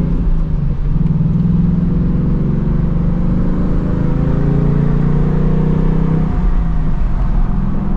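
2024 Ford Mustang GT's stock 5.0-litre V8, active exhaust open, pulling under acceleration with the exhaust note rising steadily, then dropping off about six seconds in.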